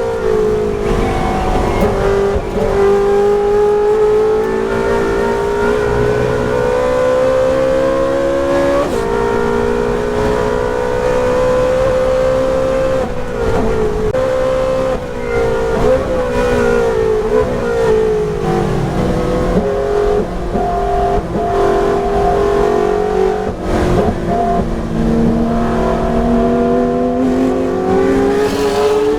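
Ferrari 458 Challenge's V8 engine running hard at racing speed, its pitch climbing slowly and dropping back several times as the revs change through the gears.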